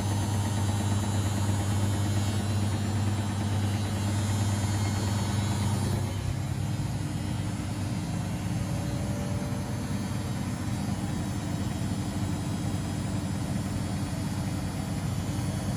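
Household laundry machines (washing machines and tumble dryers) running together with a steady low hum, its pitch and tone shifting about six seconds in.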